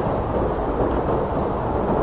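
Blizzard wind blowing steadily: a dense, deep rumble of rushing air with no separate gusts or breaks.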